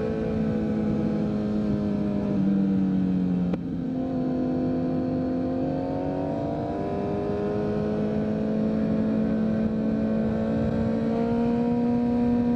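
2023 Kawasaki Z900's inline-four engine running through a full Leo Vince aftermarket exhaust while riding, its pitch shifting with the throttle. About three and a half seconds in the sound cuts briefly, then the engine note climbs slowly.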